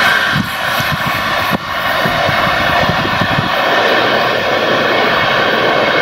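Container freight train rolling past close by, its steel wheels running loud and steady on the rails. A quick run of low knocks from the wheels over the track fades out about halfway through.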